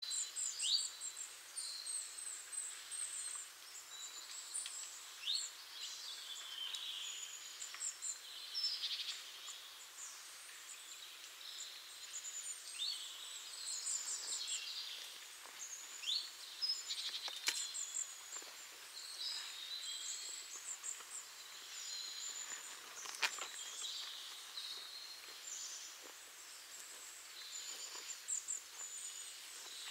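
Small birds calling and singing: many short, high chirps, whistles and trills scattered throughout over a faint steady hiss, with two sharp clicks, one just past halfway and one a few seconds later.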